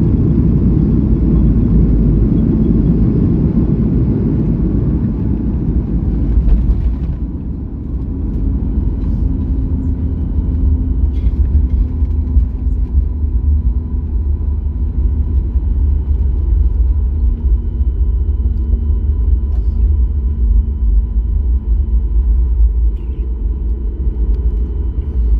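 Airliner cabin noise: a loud roar of engines and rushing air that drops off sharply about seven seconds in, leaving a deep steady rumble with a faint hum, typical of a jet slowing down on the runway after touchdown.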